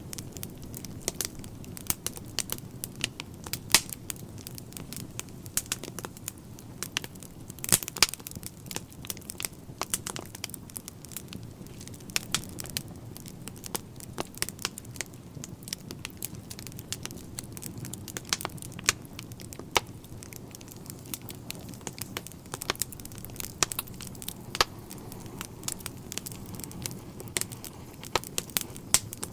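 Wood fire burning in a fireplace, crackling with frequent irregular snaps and pops over a low steady rumble of the flames.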